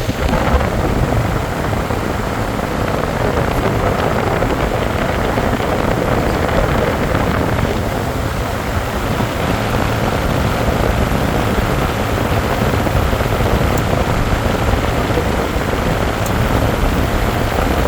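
Heat pump outdoor unit running steadily with its contactor held in by hand: the condenser fan's rush of air over a low compressor hum.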